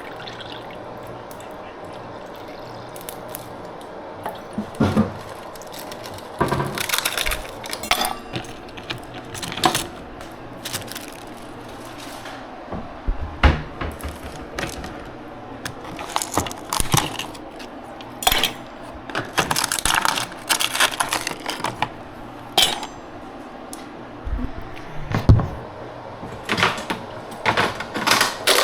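Dishes and utensils clinking and knocking as they are handled, in irregular bursts, over a steady low hum.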